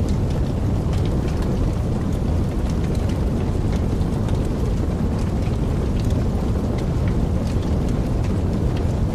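Wood fire burning in a fireplace: a steady low rumble of the flames with many small, sharp crackles and pops scattered throughout.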